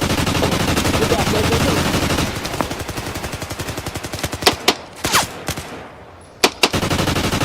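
Automatic gunfire: a machine gun fires long, rapid sustained bursts. About two seconds in the fire thins out, and a few louder single cracks stand out. Near the end a heavy sustained burst resumes.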